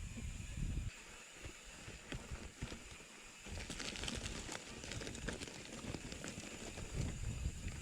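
Horse walking on a dirt trail: uneven hoof steps with some crackling in the middle, and low wind rumble on the microphone at the start and near the end.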